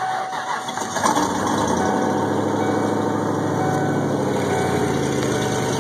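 1996 Ford Bronco's V8 on a cold start, cranking and catching about a second in, then settling into a steady fast idle. The exhaust is open at the back, with no tailpipe fitted.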